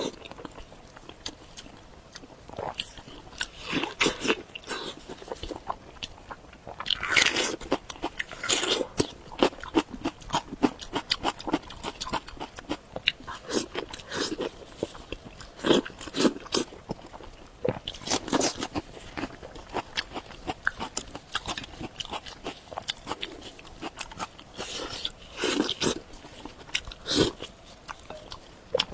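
Close-up mouth eating sounds: irregular crunchy bites and chewing of pig snout, with its cartilage crunching between the teeth.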